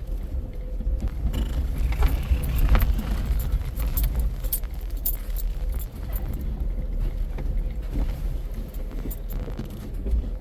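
A Jeep crawling in four-wheel drive over steep, bumpy trail: its engine makes a steady low rumble, and many light clicks and rattles come through as the vehicle jolts.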